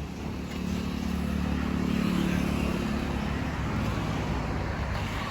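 Motor vehicle engine running with road noise, swelling about two seconds in and easing off afterwards.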